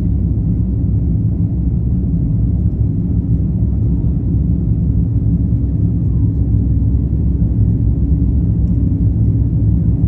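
Airbus A350-1000's Rolls-Royce Trent XWB-97 jet engines running at takeoff power: a loud, steady low rumble.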